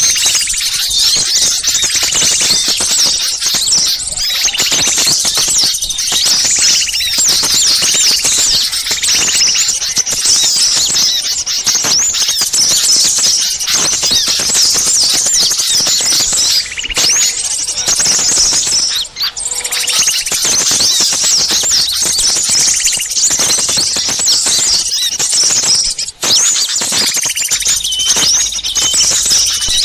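Dense, agitated chorus of many small birds chirping and twittering over one another without pause. It is a noisy bird-lure (pikat) recording made to draw wild small birds in.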